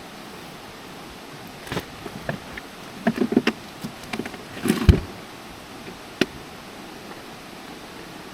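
A run of light knocks and clicks, as of things being handled, over a steady background hiss; the loudest knock comes about two-thirds of the way through, with a last click after it.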